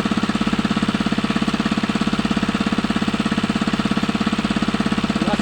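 Small engine running at a steady speed, with a fast, even knocking rhythm.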